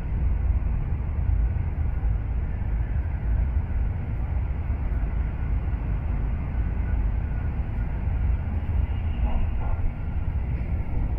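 Steady low rumble of a Shinkansen bullet train running, with no rise or fall in level.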